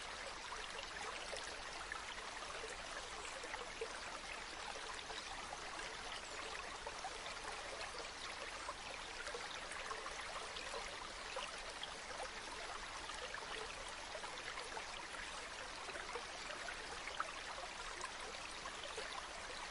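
A stream babbling steadily over stones, an even rushing wash of water, with a couple of brief sharp clicks about four seconds in and near the end.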